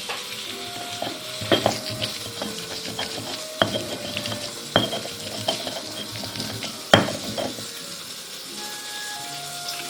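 Food sizzling in a frying pan while a utensil stirs it, scraping and knocking sharply against the pan several times, loudest about seven seconds in.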